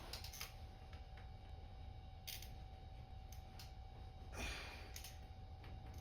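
A few short sharp clicks and knocks, scattered irregularly, over a low steady hum; the strongest knock comes about four and a half seconds in.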